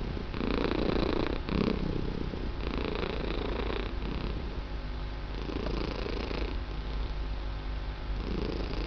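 Domestic cat purring steadily, the purr swelling and easing in slow, uneven pulses.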